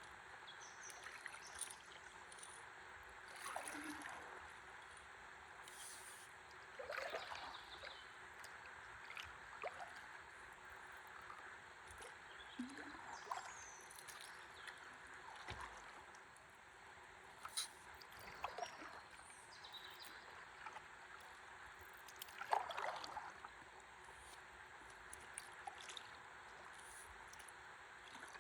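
Faint river water sloshing and trickling against a stand-up paddleboard, with a louder splash every few seconds.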